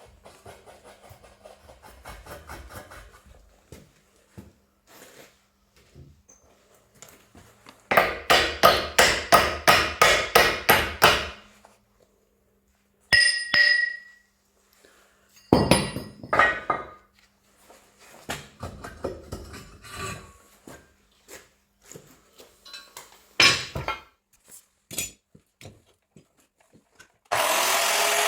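Hammer blows on steel tractor parts: scattered knocks and clinks, with a fast run of about a dozen strikes, about four a second, a third of the way in. Near the end a power tool starts and runs steadily.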